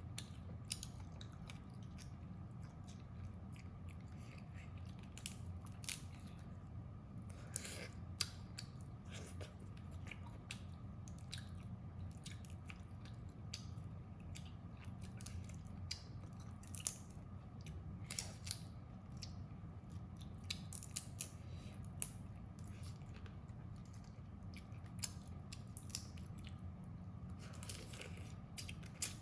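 Crab shells being bitten and cracked, with crunching and chewing heard close up, as many short irregular cracks over a steady low hum.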